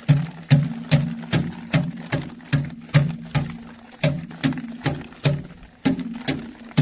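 Sorghum heads being beaten by hand to thresh out the grain: a steady run of sharp strikes, about two and a half a second, each with a short hollow ring.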